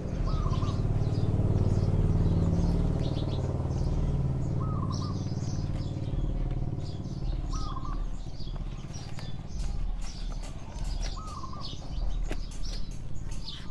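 Birds chirping and calling, with a short lower call repeated about four times at intervals of a few seconds. A low steady rumble runs underneath, strongest in the first half.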